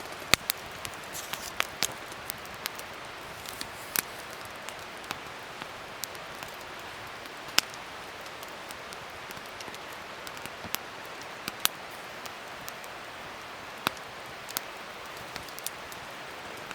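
Wood fire crackling: irregular sharp pops and snaps, a few of them much louder, over a steady soft hiss.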